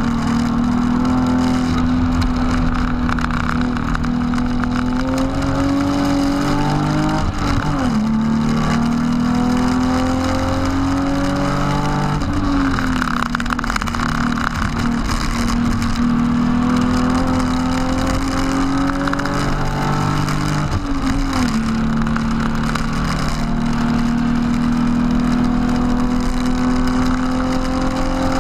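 BMW E36 328i's straight-six heard from inside the cabin, accelerating hard with its pitch climbing through the gears. It makes three upshifts, each a sudden drop in pitch, about a quarter of the way in, near the middle and about three quarters through, over steady road and wind noise.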